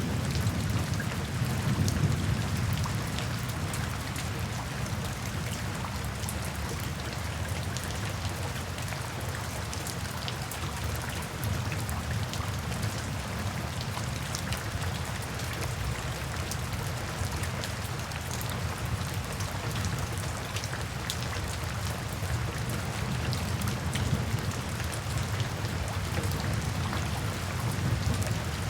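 Steady gentle rain falling, an even hiss dotted with many fine, sharp drop ticks. A low rumble of distant thunder dies away in the first few seconds.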